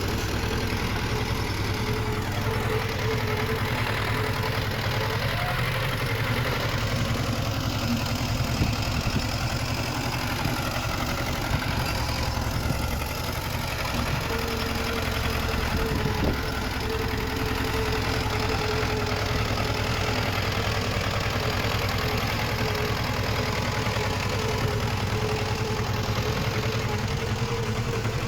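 Diesel engine of a small crawler bulldozer running steadily, with a constant whine over the engine note.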